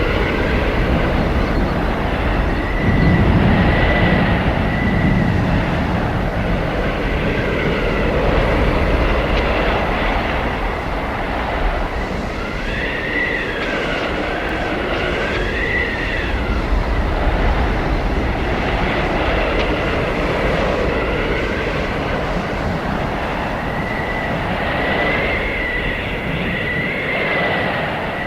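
Blizzard wind blowing steadily, with a high whistling howl that wavers up and down in pitch and comes and goes, strongest around the middle and again near the end.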